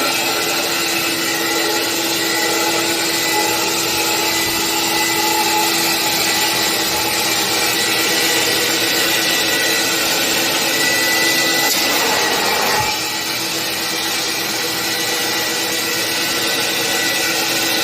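Vacuum-type upholstery cleaning machine running steadily on a fabric sofa: a continuous hiss with a steady tone, which dips and breaks briefly about thirteen seconds in before resuming.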